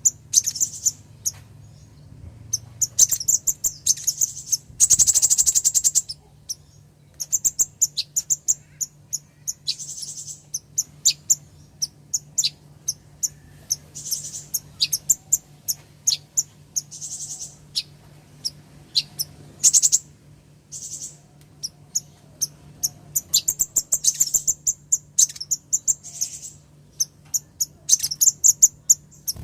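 Female kolibri ninja (a sunbird) calling: rapid, sharp high chips and short trills in irregular bursts, with a longer trill about five seconds in. A call used to lure and stir up males, over a faint steady low hum.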